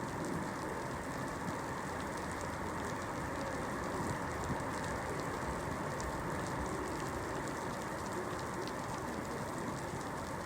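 Steady rainfall, an even hiss with scattered drop ticks.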